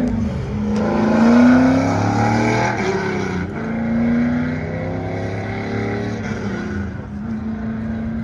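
A car engine being revved, its pitch rising and falling a few times, loudest about a second and a half in, then settling to a steadier run near the end.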